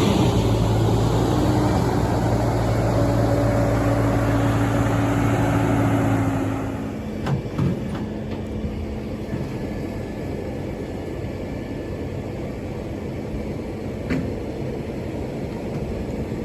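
A motor vehicle's engine running steadily with a low hum, easing off about six and a half seconds in, after which a quieter steady running sound continues with a few short clicks.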